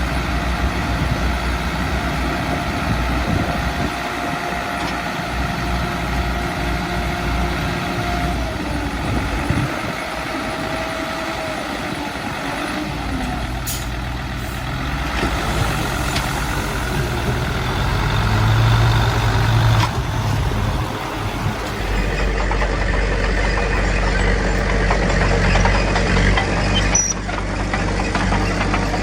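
Heavy diesel engines of earth-moving machinery, a bulldozer and dump trucks, running steadily. A thin steady whine lasts the first eight seconds or so, and the engine note rises briefly about two-thirds of the way through.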